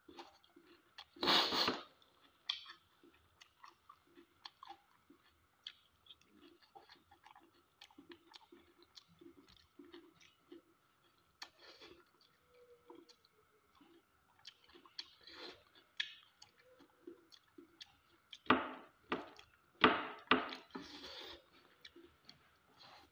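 Close-up chewing of a person eating fish curry and pasta by hand: wet mouth noises and small clicks, with louder bursts about a second and a half in and a cluster near the end. A faint steady whine sits underneath.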